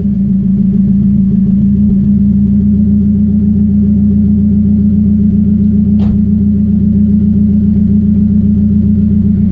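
Ford Focus RS Mk1's turbocharged 2.0-litre four-cylinder engine held at a steady engine speed, its pitch not rising or falling. There is one brief click about six seconds in.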